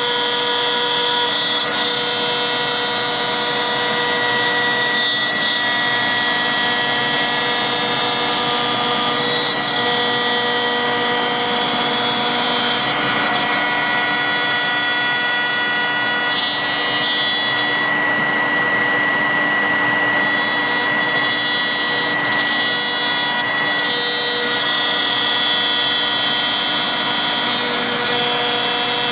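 CNC router spindle running with a steady high whine while milling 21 mm multiplex plywood, with the rushing noise of the cut underneath.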